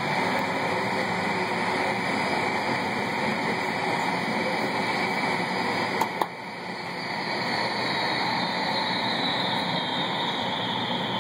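Jet engine noise from a British Airways Boeing 747-400's Rolls-Royce RB211 turbofans, a steady roar. About six seconds in come two sharp clicks, then a high whine begins to fall slowly in pitch, as an engine spools down at the gate.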